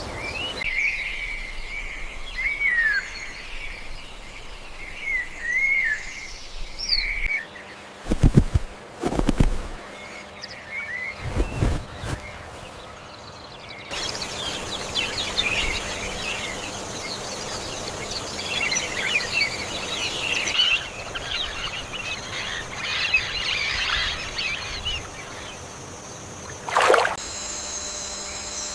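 Wild birds calling and chirping, in a string of spliced nature recordings. Short pitch-bending calls come first, then dense high chirping from a flock about halfway through, and one sharp falling call near the end. A few low thumps come about a third of the way in.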